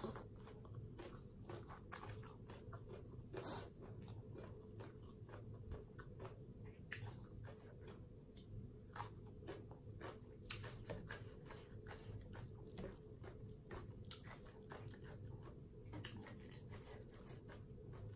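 Close-up chewing of a mouthful of papaya salad and rice noodles: soft, wet mouth clicks and smacks coming irregularly, several a second, over a faint steady hum.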